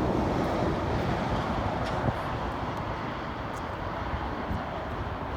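Steady rushing road and wind noise of a car driving along a highway.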